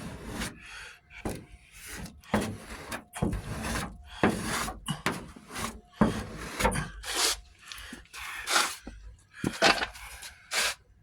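Hand sanding of dried body filler on a truck door: rasping back-and-forth strokes, irregular, about one or two a second.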